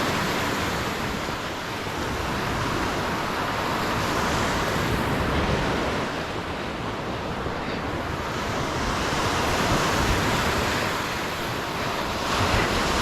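Lake Superior waves breaking and washing on the shore, a steady surf noise that swells and eases as the waves come in, with wind buffeting the microphone.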